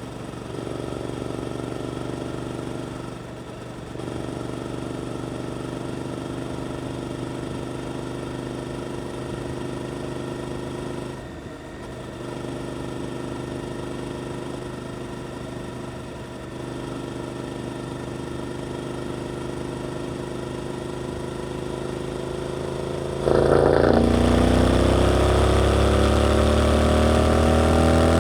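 Suzuki GSX-8S parallel-twin engine through an Arrow aftermarket exhaust, running steadily. Near the end the throttle opens: much louder, the pitch rising as the bike accelerates.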